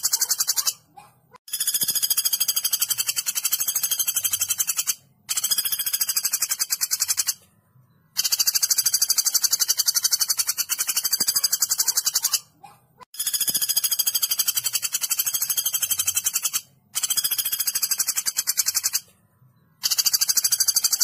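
Woodpecker calling in long, very fast, high-pitched rattling trills of several seconds each, separated by short silent pauses, six times over.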